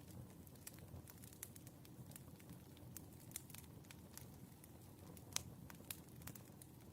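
Wood fire crackling faintly: irregular small pops and snaps over a low, steady rumble, with one sharper pop about five seconds in.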